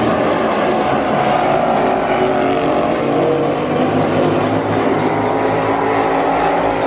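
NASCAR Cup Series stock cars' pushrod V8 engines racing around the oval: several engines sounding together at speed, held steady without one car standing out.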